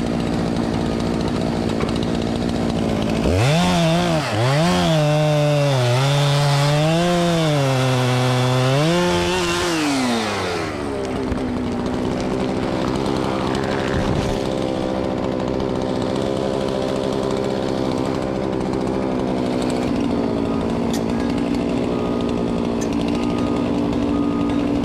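Chainsaw cutting into a tree. For about seven seconds its pitch drops and wavers as the chain bogs under load, then the note slides down as the saw is eased off. A steady engine drone runs underneath throughout.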